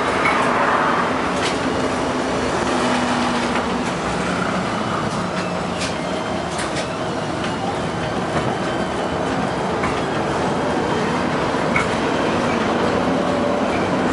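LM-68M tram running along the track: steady rolling rumble with a low motor hum, and a few sharp clicks at irregular spacing as the wheels pass over rail joints.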